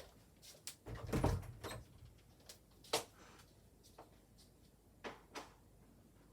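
Household handling noises in a quiet small room: a cluster of dull thuds and knocks about a second in, like a door or cupboard being moved, then a sharp click and a few lighter clicks.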